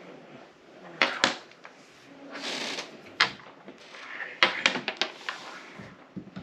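Game pieces handled on a tabletop: a series of sharp clacks and taps as pieces are picked up and set down, with a brief rustle about two and a half seconds in and a quick cluster of taps around four to five seconds in.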